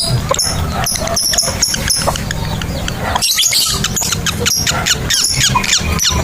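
Lovebirds chattering: a rapid run of short, shrill, high-pitched chirps, several a second.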